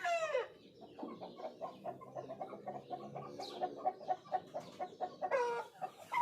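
Aseel (Lassani bloodline) chickens: a pitched call glides down and ends in the first half-second, then rapid clucking runs on at about five a second, and a short falling call comes near the end.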